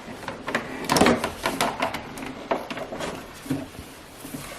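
Plastic toy food truck parts being handled: a series of light clicks and knocks, the loudest about a second in.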